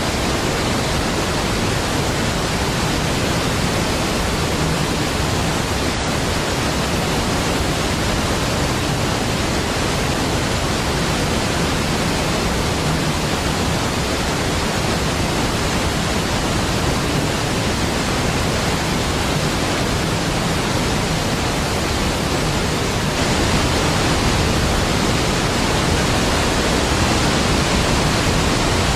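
Large waterfall, Niagara Falls, rushing in a steady deep roar of falling water, a little louder for the last several seconds.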